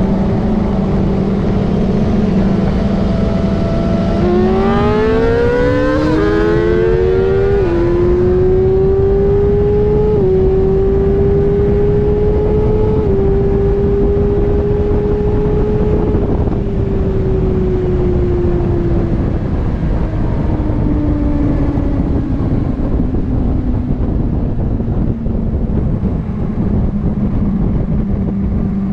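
Sport bike's inline-four engine cruising steadily, then pulled hard from about four seconds in, its pitch climbing fast through four quick upshifts. It then rolls off and winds down to a steady cruise again, with heavy wind rush on the microphone throughout.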